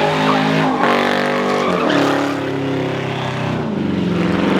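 Car engine held at high revs while its tires spin and squeal on the pavement, as in a burnout or donuts. The engine's pitch wavers, drops about two seconds in, and sinks again near the end.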